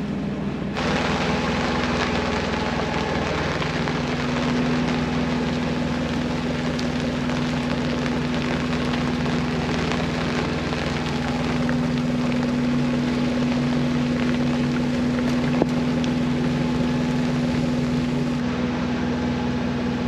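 A small sailboat's inboard engine running steadily under way, as a low, even hum over a broad hiss of wind and water.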